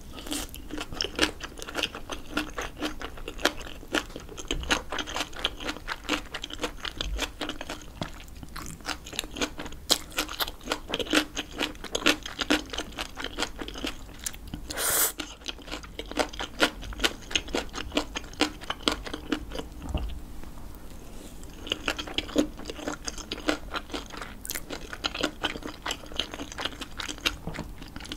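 Close-miked chewing of a mouthful of spicy buldak bibimbap with seasoned vegetables: rapid wet, crunchy mouth clicks throughout. One short slurp about halfway as a strand is drawn in.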